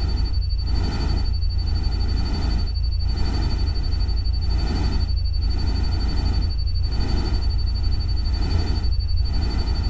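Ambient soundscape: a steady low rumble under a hiss that swells and fades evenly about every three-quarters of a second, with a thin steady high tone above.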